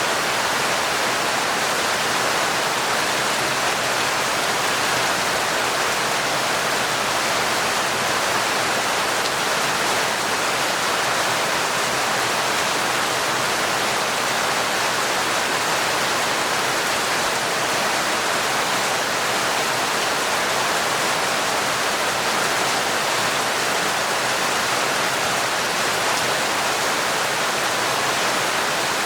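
Heavy, torrential rain falling steadily: a dense, even hiss with no single drops standing out.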